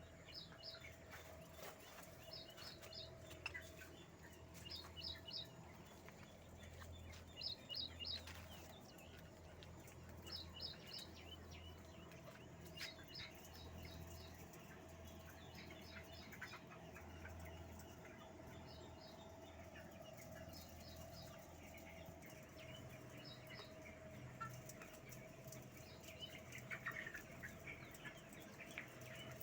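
Poultry chirping faintly in short high groups every second or two, over a steady hum.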